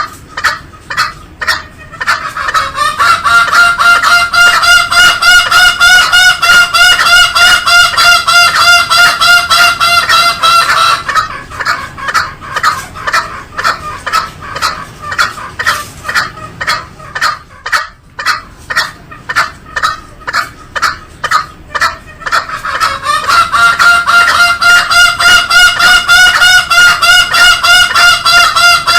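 Green junglefowl calling loudly in rapid repeated pulses, about three a second, with a steady higher-pitched call held for several seconds at a time, once starting a couple of seconds in and again from around twenty-three seconds.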